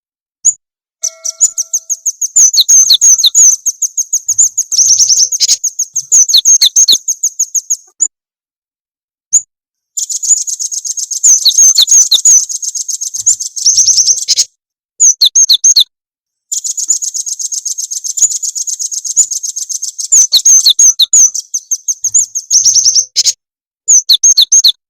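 Recorded small-songbird chirping: rapid, high-pitched chattering trills in bursts of a few seconds, cut off abruptly by short silences. It is a looped lure track of the kind played to caged cinereous tits and nuthatches to set them singing.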